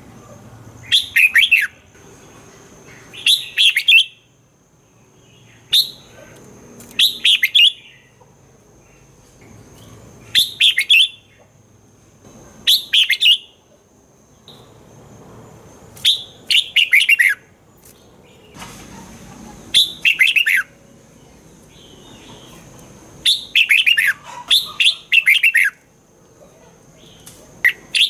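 Red-whiskered bulbul singing: short, bright, warbling phrases repeated every two to three seconds, with brief pauses between them.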